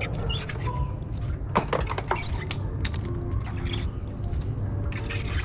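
Pool-robot debris (leaves and sand) being put onto a scale by hand: scattered clicks, knocks and rustles, over a steady low rumble.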